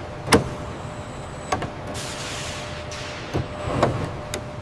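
Aircraft hydraulic system cycling the control surfaces during a ground functional check: a steady mechanical hum with a rushing hiss and several sharp clunks, the loudest about a third of a second in.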